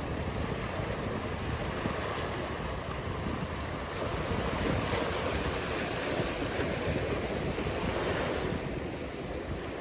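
Ocean surf: a steady wash of breaking waves that swells louder around the middle and eases near the end.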